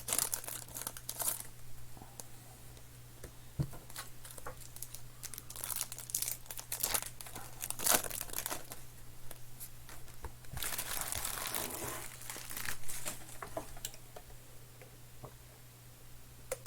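Trading-card pack wrappers crinkling and being torn open by hand, in irregular crackles and clicks, with a longer tearing rustle a little past the middle. A faint steady electrical hum runs underneath.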